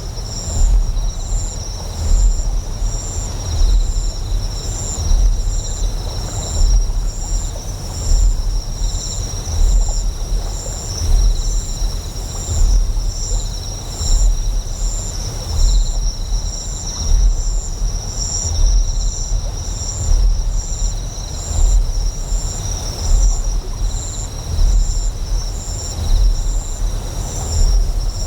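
Deep generator hum in a sci-fi ambience, throbbing in slow even swells about once every second and a bit. Over it runs steady high-pitched insect chirping, with a fast regular pulse at the top.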